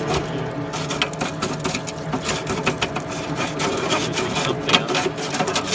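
A long stick scraping and knocking inside a pellet stove's metal vent pipe, a rapid, irregular run of clicks and rasps over a steady hum, as the flue is checked for blockage.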